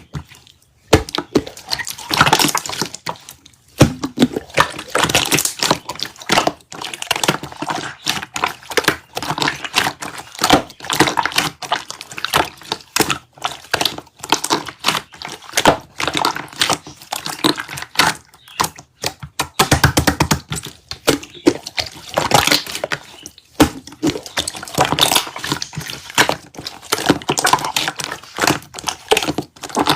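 Slime being squished and handled by hand, making a dense run of quick wet clicks, pops and crackles.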